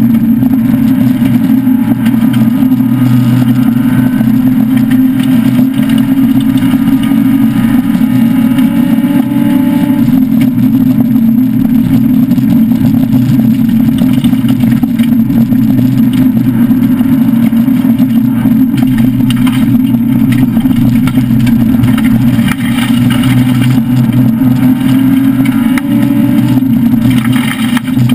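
Citroën SM rally car's Maserati V6 engine running hard at a steady pitch, heard from inside the cabin, with occasional knocks from the rough gravel track.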